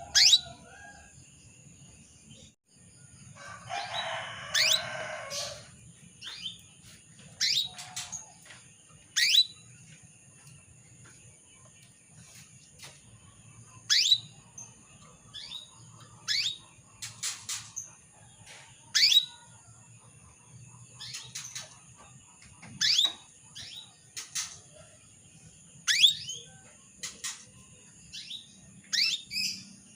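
Female canary calling: short, sharp chirps that drop steeply in pitch, repeated every second or two, the come-hither call a hen in breeding condition uses to rouse a male. About four seconds in there is a brief burst of rustling.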